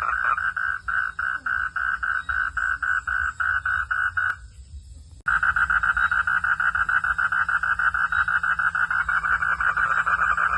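Frogs calling in a rapid, steady pulsing chorus, about six pulses a second. The calling breaks off abruptly about four seconds in and starts again a second later.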